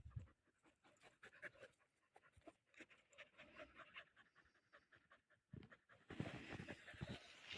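Faint dog panting, a run of short quick breaths. About six seconds in, a louder hiss of noise joins it.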